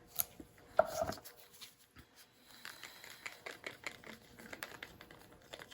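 Small clicks, taps and light scrapes of paint cups and tools being handled while mixing acrylic paint. A louder knock with a brief squeak comes about a second in.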